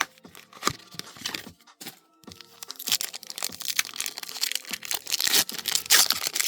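Foil booster pack wrapper being torn open and crinkled in the hands, a dense run of sharp crackles and tearing that is heaviest in the second half.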